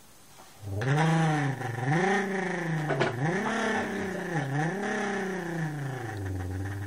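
A person imitating a car engine revving with their voice, the pitch swinging up and down about five times in a row and settling into a lower, steady drone near the end. It starts just under a second in.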